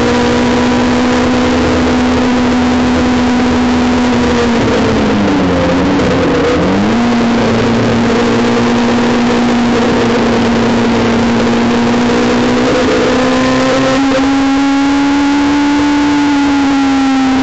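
Honda S2000's four-cylinder engine at high revs, heard from inside the cabin at racing speed. The engine note steps down right at the start, dips lower about five seconds in and climbs back within two seconds, then holds high, rising slightly before easing near the end.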